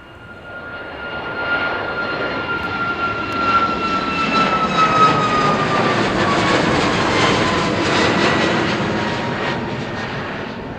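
Jet aircraft passing close by. The engine noise swells, holds and then fades, and its whine slides down in pitch as the plane goes past.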